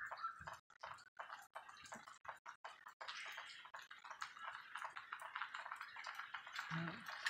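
Light rain: faint, irregular ticking of raindrops, sparse at first and turning into a denser patter about three seconds in.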